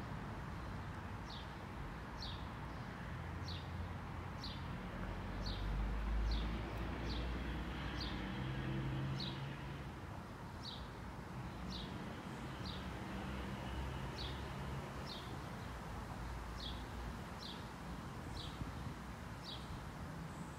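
A small bird calling over and over with short, high, falling chirps, roughly one a second, over a low rumble that swells about six seconds in.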